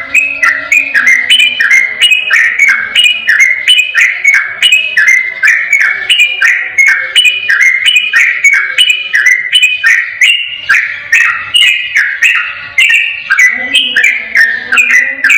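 Yellow-vented bulbul (trucukan) singing in the rapid, unbroken 'ropel' style: a non-stop run of bright, bubbly whistled notes, about three a second, without a pause.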